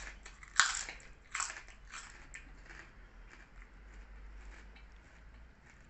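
A person biting into crispy microwaved pork crackle and chewing it: a loud crunch about half a second in, two more crunches over the next second and a half, then quieter crunching chews that fade away.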